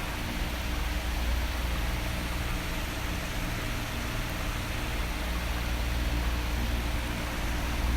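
Electric fan running steadily, an even airy hiss with a low hum underneath. It is quieter here and grows louder near the end.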